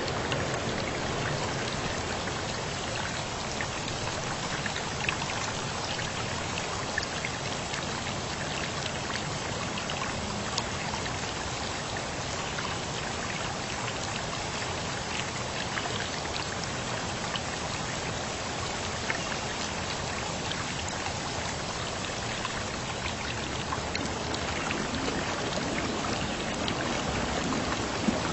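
Steady rainfall, an even hiss of rain with many scattered close drops ticking on a surface.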